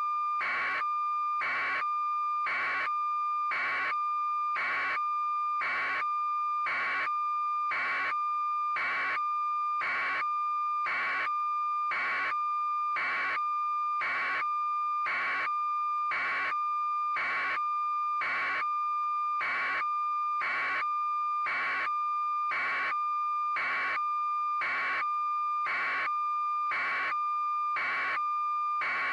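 A steady electronic tone held at one pitch, with an even beeping pulse over it about one and a half times a second, never changing in level.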